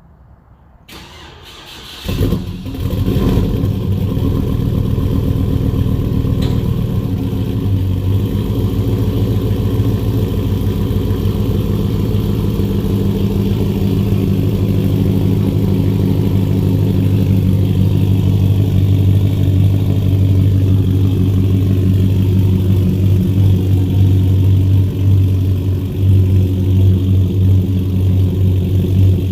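2007 Chevrolet Avalanche V8 cranked by the starter for about a second, catching about two seconds in and then running steadily.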